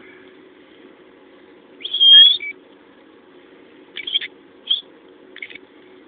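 A fledgling bird calling: one longer, high-pitched call about two seconds in, then three short calls near the end.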